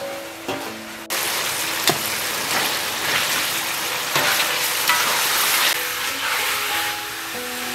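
Raw pork pieces sizzling loudly in hot oil and garlic in a wok, the sizzle jumping up suddenly about a second in as the meat goes into the oil. A metal spatula stirs it, knocking against the wok a few times.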